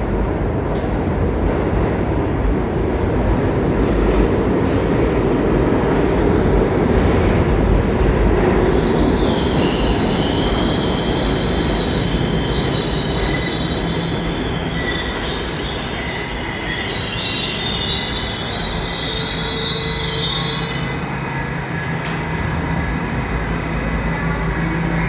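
Subway train running through the station with a loud rumble, then its wheels squealing in a high screech from about ten seconds in for roughly ten seconds.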